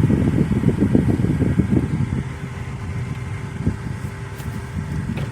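Low, steady vehicle rumble heard from inside a car, easing off about two seconds in, with a faint steady hum underneath.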